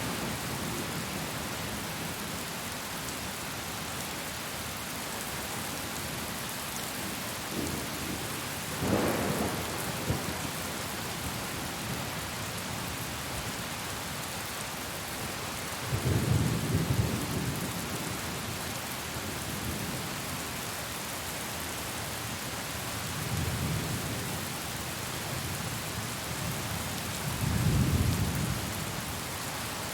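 Steady heavy rain with several rolls of thunder. Low rumbles come about 9 seconds in, then around 16 to 18 seconds, near 24 seconds and near 28 seconds.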